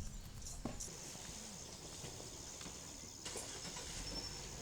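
Insects chirping steadily in a high, even band, with two sharp clicks or knocks near the start, about two thirds of a second apart.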